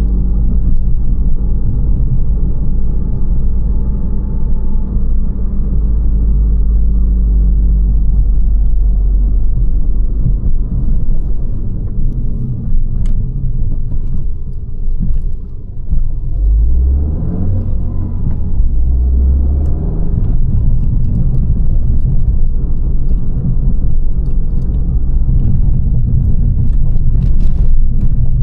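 Abarth 595 Competizione's 1.4 T-Jet turbocharged four-cylinder engine and Record Monza exhaust running under way with a steady low drone. About halfway through the sound briefly drops, then the engine pitch rises and falls for a few seconds as the revs change, before it settles back into the drone.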